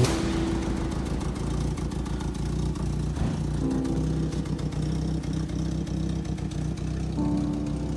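Peugeot 203's four-cylinder engine idling steadily.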